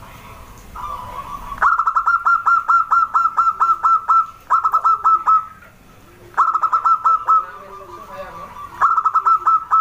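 Zebra dove (perkutut) calling: four runs of rapid, evenly repeated notes, about five a second, the first and longest lasting over two seconds.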